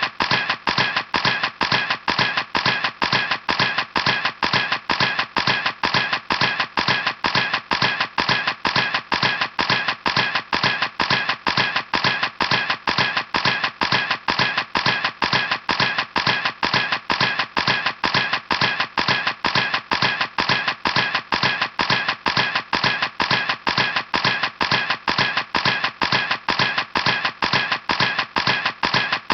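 Camera shutter clicking over and over at a steady, even rate of about three clicks a second.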